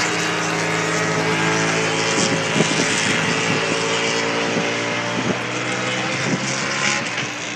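MotoGP race motorcycle engines running at a fairly steady pitch, with brief rises and falls in pitch from about two seconds in, over a haze of crowd and track noise.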